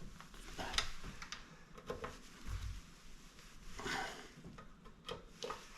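Faint scattered clicks and light scrapes of a screwdriver and hand working, tightening screws into the stand mixer's aluminum housing.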